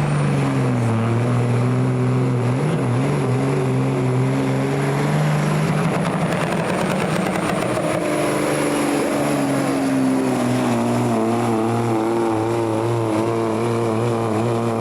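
Diesel engine of a pulling truck or tractor running hard under heavy load down the track, with a high thin whistle over it. Its pitch wavers and sags slowly through the middle, then settles into an uneven warble near the end.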